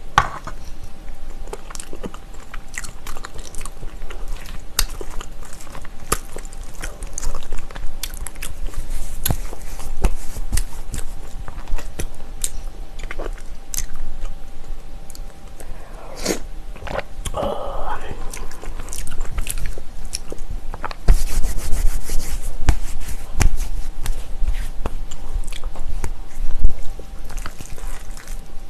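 Close-miked chewing of spicy bibimbap, with wet, crunchy bites of mixed vegetables and bean sprouts, and a stainless steel spoon clicking and scraping against a metal mixing bowl. A brief hum comes a little past the middle, and the chewing grows louder for a few seconds near the end.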